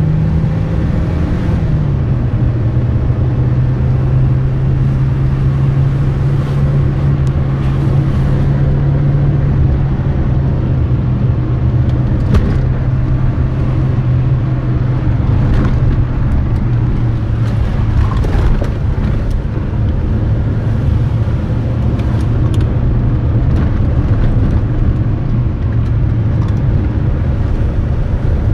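Car engine running steadily at speed, heard from inside the cabin, its pitch dropping once about a second and a half in, over a constant rumble of road noise with a few sharp clicks.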